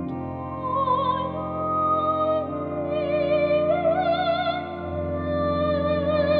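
A classical-style solo singer with a high voice and a wide vibrato, singing long held notes over sustained keyboard chords that change twice.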